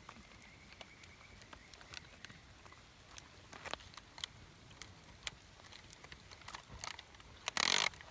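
Wood campfire crackling: scattered sharp pops and clicks, with one louder, half-second burst of noise near the end.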